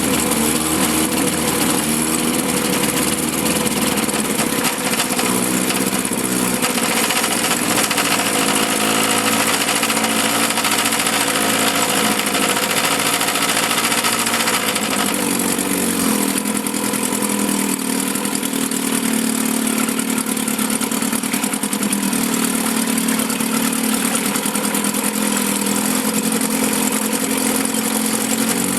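1954 Johnson CD-10 5.5 hp two-stroke twin outboard motor running steadily in a test barrel, its note changing about halfway through.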